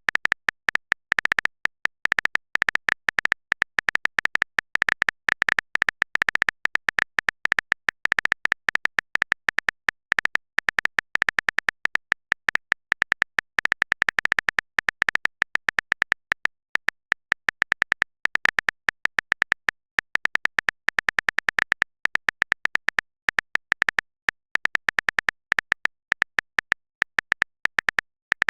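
Typing sound effect: quick, irregular keyboard-like clicks, several a second with short pauses, going on throughout.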